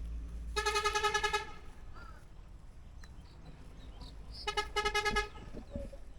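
A vehicle horn sounds twice, about four seconds apart. Each blast is a buzzing, rapidly pulsing tone lasting about a second, over a steady low rumble.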